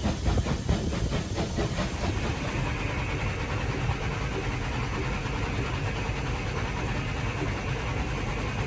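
Three-cylinder Bulleid Pacific steam locomotive heard from the footplate as it gets under way. Its exhaust beats come about three or four a second for the first two seconds, then merge into a steady running rumble with steam hiss.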